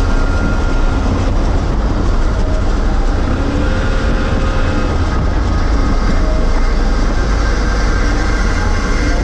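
Speedboat running underway: a steady, loud engine drone mixed with rushing wind and water noise, heaviest in the low end.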